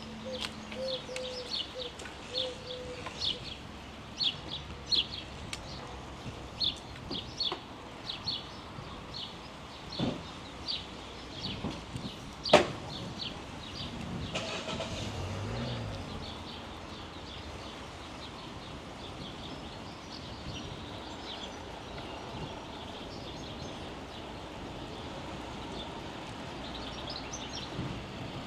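Birds chirping in quick repeated short calls, thick at first and thinning out after about thirteen seconds, over a steady outdoor background rumble. A single sharp click comes about twelve seconds in.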